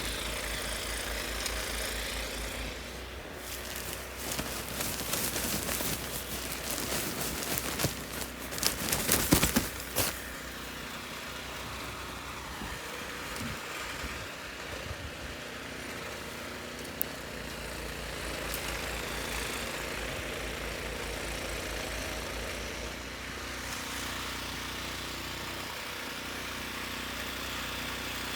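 An engine running steadily with a low pulsing hum, broken by a few seconds of loud clattering noise about eight to ten seconds in.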